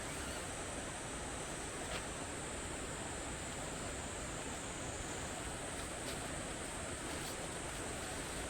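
Steady outdoor background noise: an even rushing hiss with a constant high-pitched band over it, and a few faint clicks.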